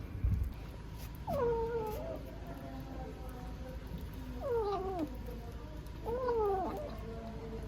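A cat meowing three times, each call rising and then falling in pitch, spaced a few seconds apart.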